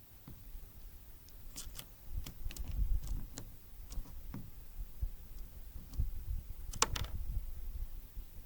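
Great tits and blue tits at a seed feeder: irregular sharp clicks and taps from pecking and landing, the loudest about seven seconds in, over a low rumble.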